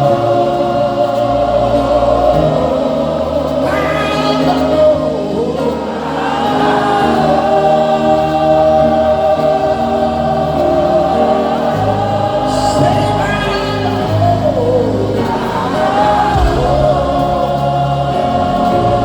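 Gospel worship music: a choir singing long held notes over a sustained musical backing.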